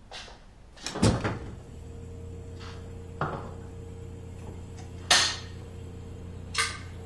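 A refrigerator door opens with a thud about a second in. The fridge's steady hum follows, broken three times by short knocks and rustles of things being handled.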